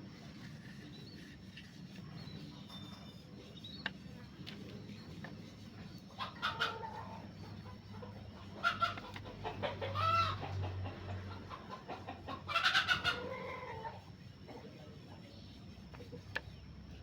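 Bird calls: several short pitched calls come in clusters from about six to fourteen seconds in, over a low steady hum. A couple of sharp clicks are heard before and after them.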